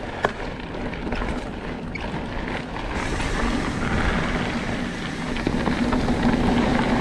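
Wind rushing over the microphone and mountain bike tyres rolling over a dirt trail at speed, with a sharp clack just after the start. A steady hum comes in about halfway through.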